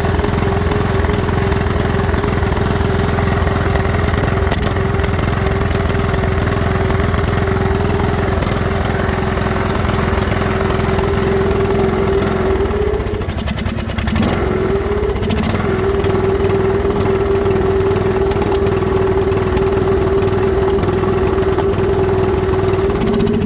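Briggs & Stratton engine of a Troy-Bilt Pony riding mower running steadily, then stumbling and dipping in speed about halfway through before picking back up: the surging and stuttering fault, which the owner traced to the idle set screw at the carburetor.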